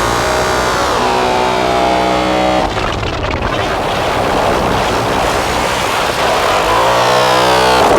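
Modular synthesizer drone run through fuzz and filter pedals: thick, distorted pitched tones that glide downward early on, then break into a dense noisy texture. Clear pitched tones return near the end.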